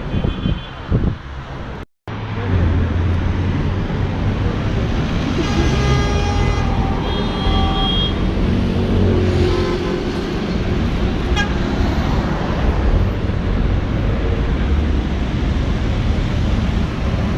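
Busy city road traffic with a steady low rumble of engines, and car horns honking a couple of times about a third of the way in.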